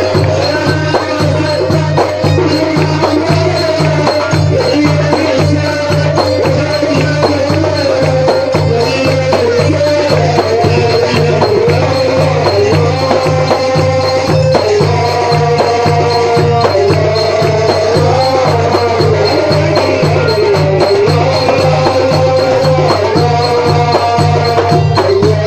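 Instrumental Port Said simsimiyya folk music played by a live band: a wavering melody line over a steady, evenly repeating low drum beat.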